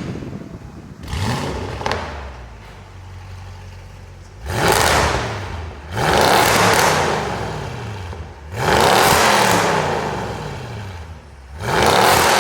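Audi RS7's twin-turbo V8 revved through its exhaust: a light blip about a second in, then four sharp revs, each rising quickly and falling away as the revs drop.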